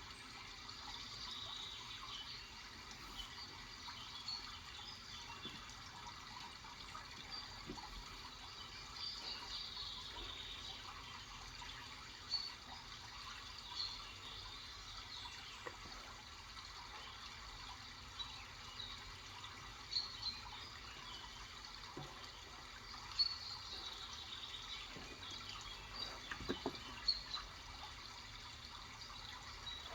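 Steady trickling water with small chirps of birdsong over it. A handful of separate sharp taps stand out, mostly in the second half.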